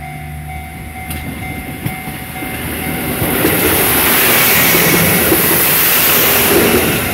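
KiHa 25 diesel railcar passing close by. Its low engine hum builds into loud wheel-on-rail rumble and clatter as the cars go past, loudest from about four to seven seconds in.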